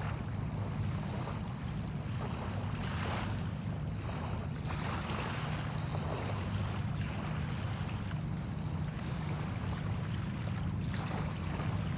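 Bay water washing ashore in small, gentle swells over a steady low rumble.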